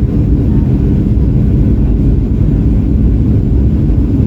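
Steady low rumble of a Boeing 737-800 in flight, heard inside the cabin from a window seat: engine and airflow noise.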